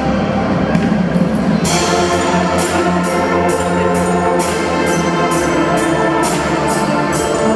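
A drum band playing: brass instruments holding sustained chords over marching percussion. From about two seconds in, the percussion strikes land steadily about twice a second.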